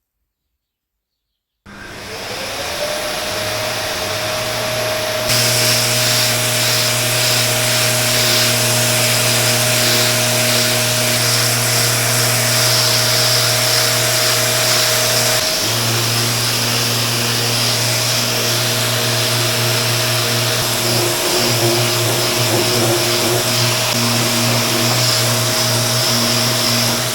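A handheld electric power tool's motor spins up about two seconds in, then runs steadily with a whine and a hiss.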